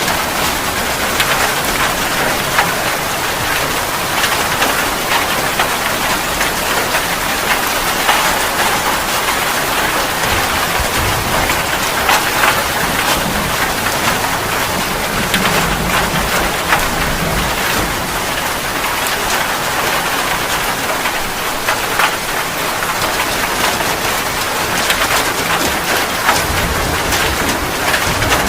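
Steady heavy rain, an even hiss with many individual drops striking close by.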